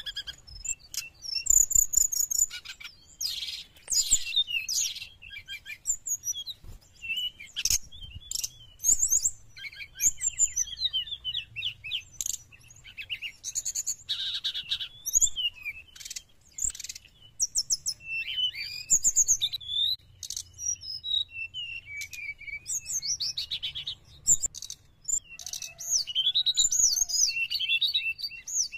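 Brown-chested jungle flycatcher singing continuously in rapid, varied phrases of high chirps, whistles and trills, with only brief pauses between phrases.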